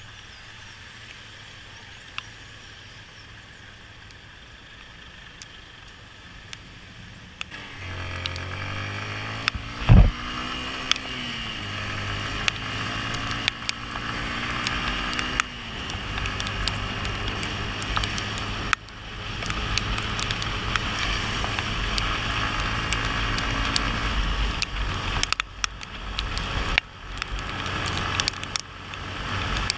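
Motorcycle engine idling, then pulling away and accelerating up through the gears with brief dips between shifts, tyres hissing on a wet road. There is one loud thump about ten seconds in, and small ticks that fit raindrops striking the microphone run throughout.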